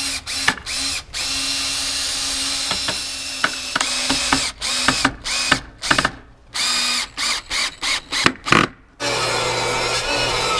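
Electric drill run in many short trigger bursts, each starting with a rising whine, driving screws. About nine seconds in, a different steady machine sound with a low hum takes over.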